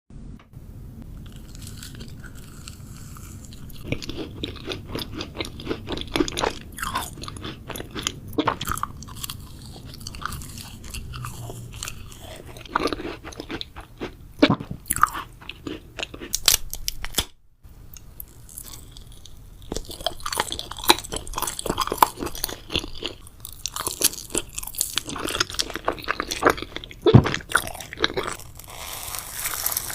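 Close-miked eating of sweets: bites followed by crunching and chewing, a dense run of irregular crisp crackles and clicks. The sound breaks off for a moment about halfway through, then the chewing resumes.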